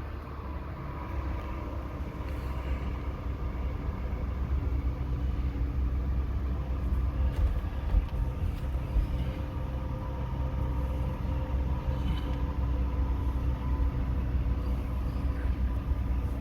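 Toyota Tacoma pickup driving along: a steady engine hum with road and tyre noise.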